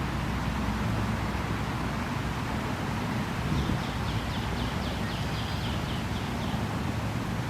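Steady rushing of a flowing creek with wind in the background. About halfway in, a bird calls a quick run of about ten short, high notes lasting roughly two seconds.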